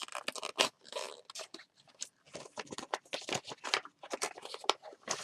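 Gift-wrapping paper and a cardboard gift box being handled: irregular crinkling, tearing and scraping of paper and card as the wrapping is pulled off and the box opened.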